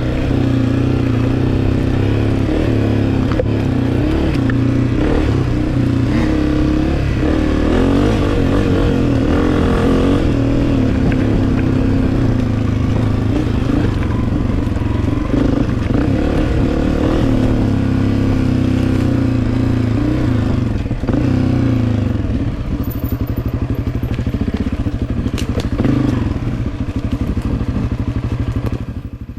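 Two-stroke dirt bike engine running on a trail, its pitch rising and falling as the throttle is worked, with clatter and scraping from the bike over rough ground.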